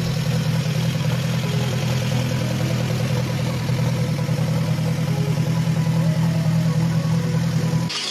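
Engine of a homemade motorcycle running steadily, cutting off abruptly near the end.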